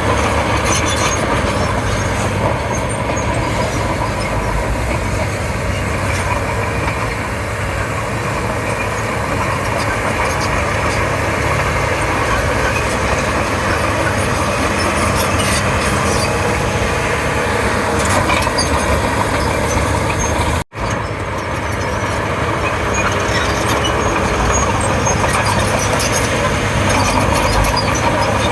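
Komatsu D31P crawler bulldozer's diesel engine running steadily as it works. The sound drops out for a split second about two-thirds of the way through.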